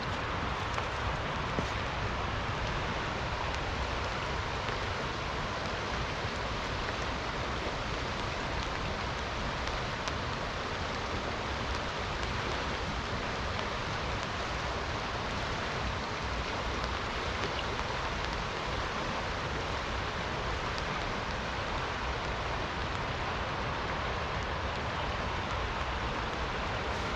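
Steady rain falling, with scattered single drops heard as light ticks over the even hiss.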